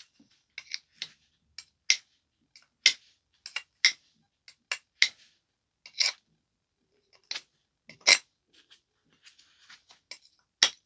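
Flintknapping: a stone biface being worked along its edges, giving a string of sharp, irregular clicks and snaps as small flakes come off.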